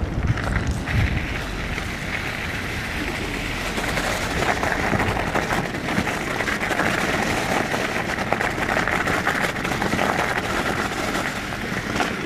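Steady hiss of fat e-bike tyres on a wet road in the rain, with wind, while riding.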